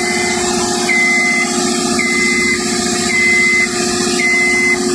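Genie lift's diesel engine and hydraulics running steadily under load while the basket rises, with the lift's motion alarm beeping about once a second.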